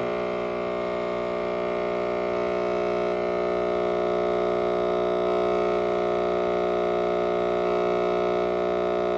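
Nespresso capsule coffee machine brewing: its pump hums steadily and loudly as it pushes hot water through the capsule into the cup.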